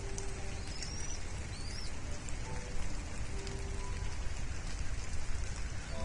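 Steady rain hiss, full of small scattered drop ticks. Soft held notes of background music sound over it, and a couple of high, hooked bird chirps come in the first two seconds.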